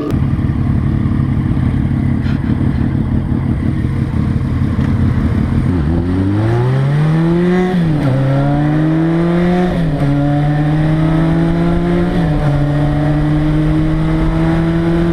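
Motorcycle engine under way with rushing wind. About six seconds in it accelerates, revving up and dropping back at three upshifts roughly two seconds apart, then holds a steady speed in a higher gear.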